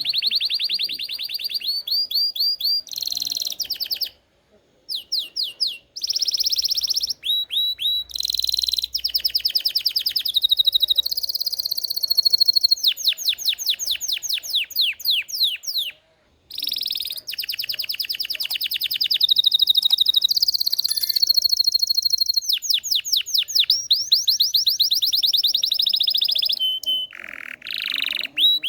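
Domestic canary (Belgian canary) singing: long rolled trills and runs of fast repeated sweeping notes, in phrases broken by short pauses about four seconds and sixteen seconds in.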